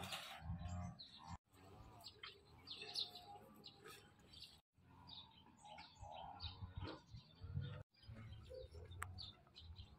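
Faint birds chirping and calling, in short stretches that cut off suddenly three times.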